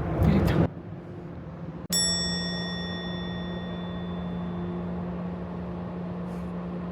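A single high bell-like ding about two seconds in, ringing out and fading over a couple of seconds, over a steady low hum.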